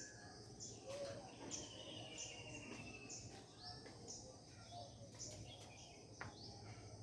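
Several wild birds singing in a faint morning chorus: short high calls repeat about once a second, and a rapid trill falls slowly in pitch about a second and a half in, over a low steady background hum.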